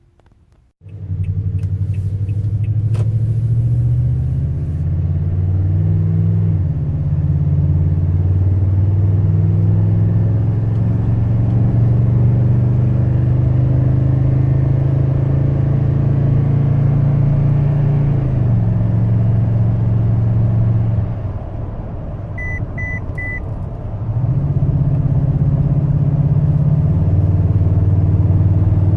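2019 Toyota Tundra TRD Pro's V8 with the TRD dual exhaust, heard from inside the cab with the windows up as the truck accelerates: a very low grumble whose pitch climbs and then steps down at each gear change. About two-thirds through it eases off briefly while three short beeps sound, then pulls again.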